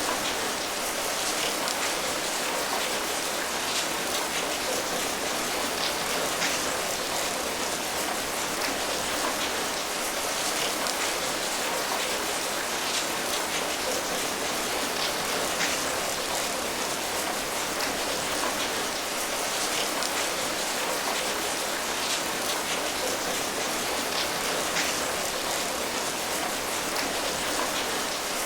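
Steady rain falling, a continuous even patter with many small individual drop ticks.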